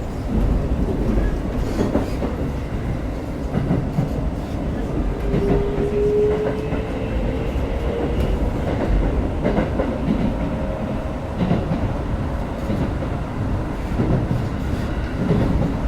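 Running noise inside a Keikyu 1000-series (unrenewed) car on the move: steady wheel-and-rail rumble with rail-joint clatter. Partway through, a whine from the Siemens inverter and traction motors rises slowly in pitch for several seconds as the train gathers speed.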